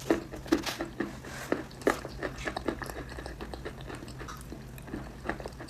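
A person biting and chewing something hard and crunchy: sharp crunches, loudest in the first two seconds, then a run of smaller crackles as it is chewed.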